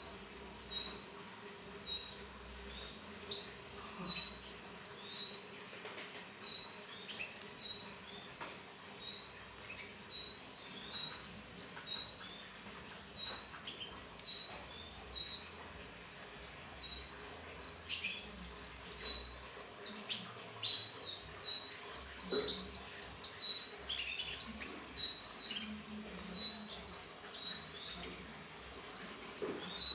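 Canaries chirping: short high chirps repeated about twice a second, joined from about twelve seconds in by fast warbling trills that grow denser and louder.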